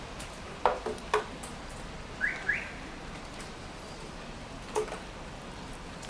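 A bird gives two short rising chirps in quick succession about two seconds in, over a steady hiss. Sharp taps come twice in the first second and once more near the end.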